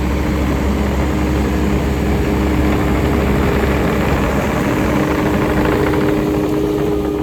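Takeuchi land-clearing machine running steadily at close range, its engine rumbling with a steady whine over it.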